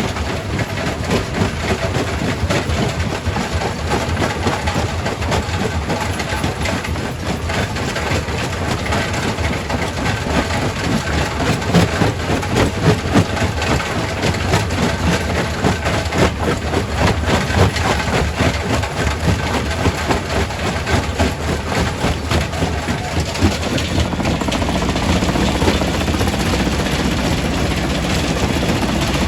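Quarry primary rock crusher running, a heavy machinery drone under a dense, continuous clatter of rock being broken. About five seconds before the end the clatter thins and a steadier low drone carries on.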